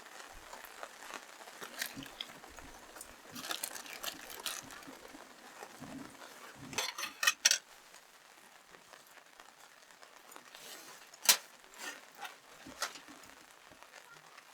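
Irregular handling sounds of hotpot cooking: crinkling and clinks of tableware against a pot. There is a quick run of sharp clicks about halfway through and one loud sharp click later.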